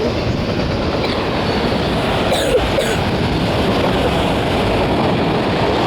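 A train passing close by at high speed: steady, loud rumble and rush of wheels on rail, with a couple of brief clicks about two and a half seconds in.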